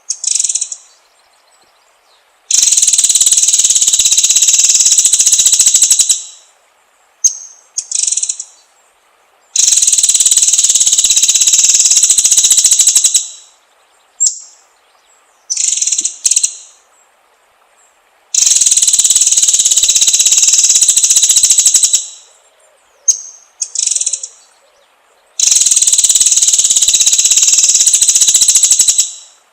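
White-rumped shama (murai batu) lure recording: short high whistled notes alternating with four long, loud, high-pitched buzzing trills of about three and a half seconds each, repeating at even intervals.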